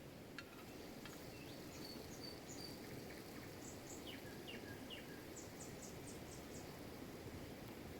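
Small birds chirping: short high whistles, three quick falling notes, then a fast run of about six high notes, over a steady low rushing background.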